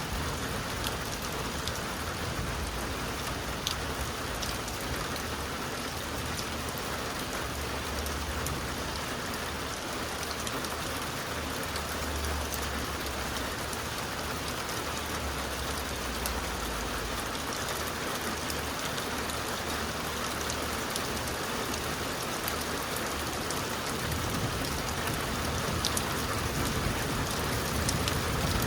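Heavy rain pouring down steadily, with a few droplet ticks, getting a little louder near the end.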